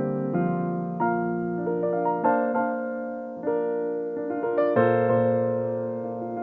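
Solo piano playing slow, sustained chords, with a new chord struck about every second.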